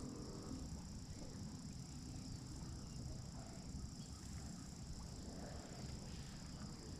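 Faint steady outdoor background noise: a low rumble with a steady high hiss, and no distinct events.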